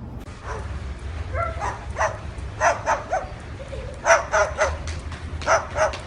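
A dog barking: short, sharp barks in quick groups of two or three, starting about two seconds in.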